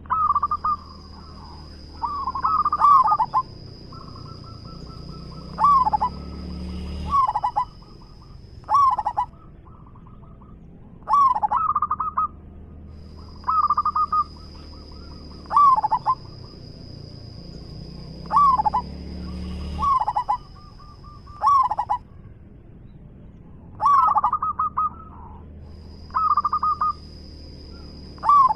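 Zebra dove (perkutut) singing loudly: short phrases of quick, rippling coos, repeated every second or two.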